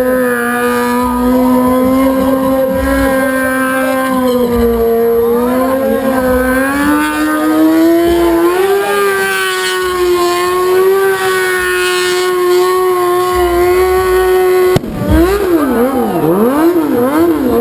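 Motorcycle engines held at high revs with a steady pitch that steps higher about halfway through. Near the end the sound cuts and gives way to engines being revved rapidly up and down.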